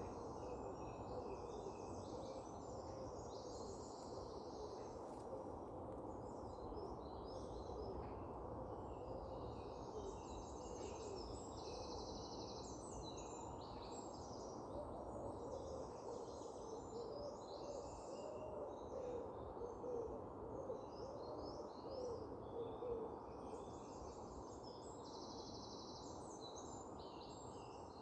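Birdsong over a steady low rushing background. Several small birds chirp and trill high and repeatedly. A lower bird call repeats in wavering runs of notes, louder in the second half.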